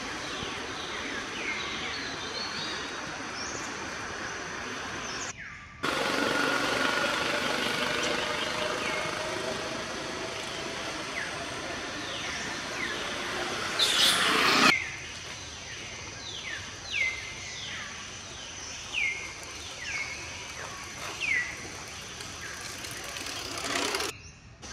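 Birds chirping in short, repeated falling calls over outdoor ambience. About five seconds in the sound cuts to a louder, noisier stretch that ends with a loud sharp burst about fourteen seconds in, after which the falling chirps return at intervals.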